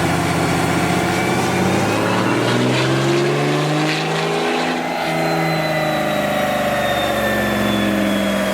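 6.7-litre Cummins inline-six turbo-diesel in a pickup on a chassis dyno, climbing steadily in revs under load for about four seconds and then winding down slowly, a high turbo whistle falling along with it.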